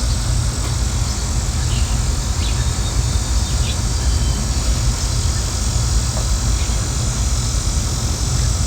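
Steady low rumble with a hiss over it, and a few faint short high chirps or ticks.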